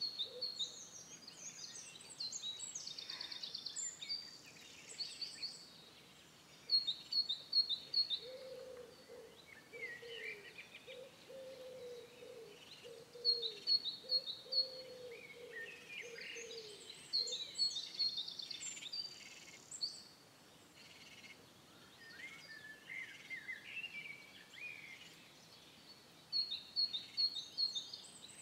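A songbird singing the same phrase over and over, a string of short high notes ending in a trill, about every six to seven seconds. Through the middle a low cooing repeats several times.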